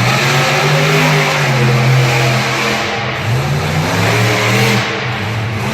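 Monster truck engine revving loudly in repeated surges, its pitch climbing and falling several times.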